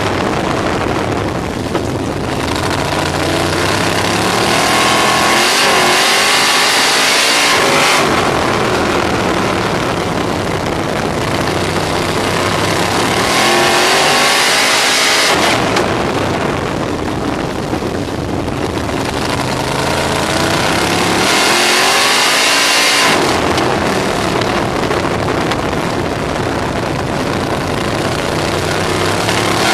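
On-board sound of a RaceSaver 305 sprint car's V8 engine running at racing speed, its note dropping and climbing back once about every seven and a half seconds as it slows for the turns and pulls hard down the straights, lap after lap. A steady rush of wind and track noise runs underneath.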